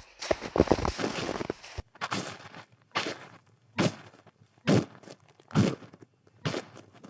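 Footsteps crunching in snow. A dense run of crunching in the first two seconds stops abruptly, then gives way to a slow, even pace of single crunching steps a little under a second apart.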